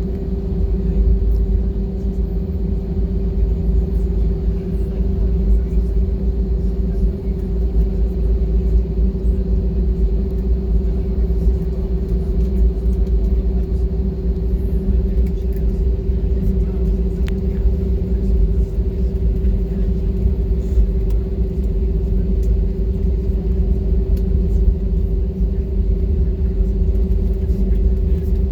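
Airbus A320 jet engines running at low power, heard from inside the passenger cabin: a steady low rumble with a constant hum over it.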